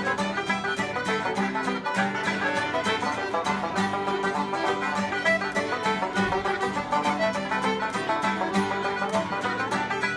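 Ceilidh band playing a traditional dance tune with a steady, quick beat.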